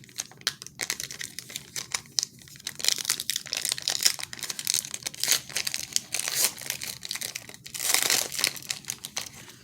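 A 2016 Donruss baseball card pack being opened by hand, its wrapper crinkling and crackling as it is torn, with a louder, longer rustle about eight seconds in.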